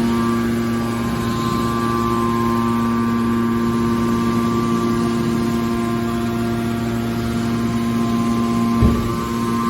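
Hydraulic metal baler running with a steady machine hum, with one short low thump about nine seconds in.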